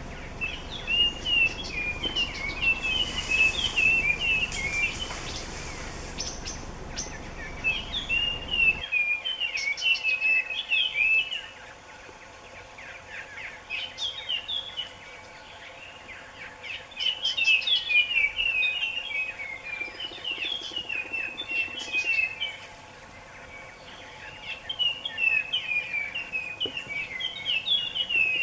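A songbird singing in repeated bouts of quick, warbling high-pitched phrases, each bout a few seconds long with short pauses between. A low background rumble, like wind on the microphone, runs under it and cuts off suddenly about nine seconds in.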